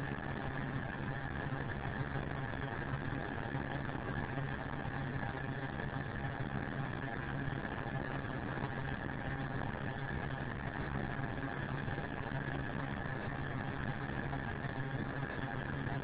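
Aircraft engine drone, steady and unchanging, with a constant low hum and a higher steady tone above it.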